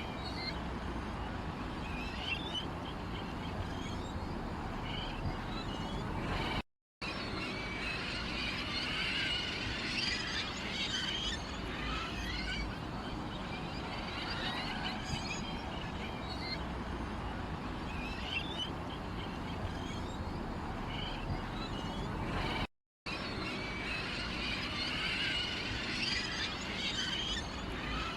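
Many small birds chirping and twittering over a steady outdoor background. The sound cuts out completely for a moment twice, once about a quarter of the way in and again near the end.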